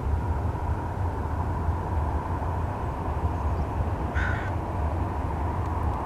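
Steady low rumble of a departing Airbus A321neo's jet engines at takeoff power. A single crow caw cuts through about four seconds in.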